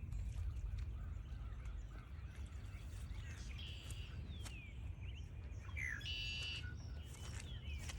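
Several songbirds chirping and calling in woodland, with a short buzzy trill about six seconds in, over a steady low rumble.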